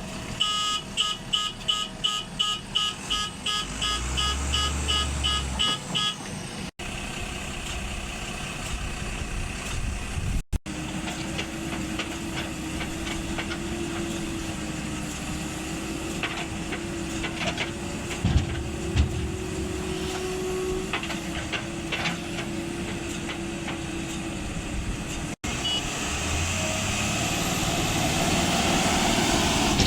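Heavy vehicle engines running. For the first six seconds a reversing alarm beeps about four times a second, and later a steady whining tone holds for about twelve seconds over the engine noise.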